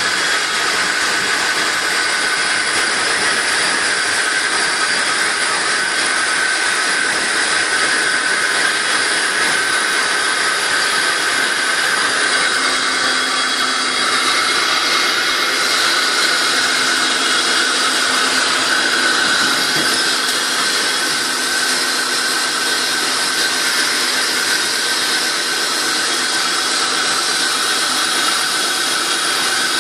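Running noise of a moving train, a steady loud rushing roar of wheels on the rails and rushing air, coming up through the open drop-hole of a train toilet.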